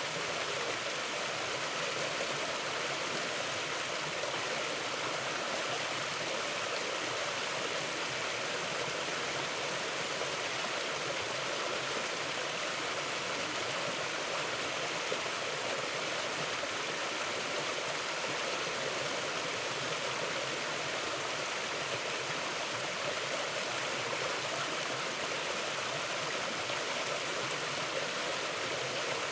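Steady rushing of a forest stream flowing over rocks, an even wash of water noise with no breaks.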